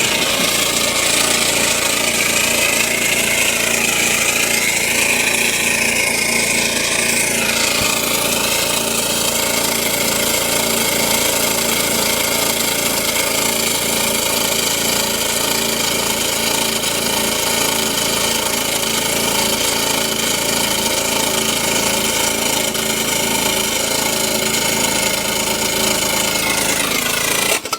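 Lawn mower engine running steadily, then cutting off abruptly near the end as it seizes, which the owner puts down to the connecting rod.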